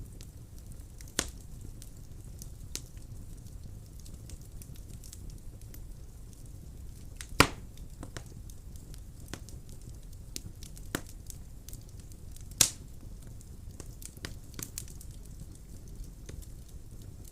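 Wood fire burning in a fireplace: a low steady rumble of flames with scattered sharp crackles and pops, three of them louder, about a second in, midway and near two-thirds of the way through.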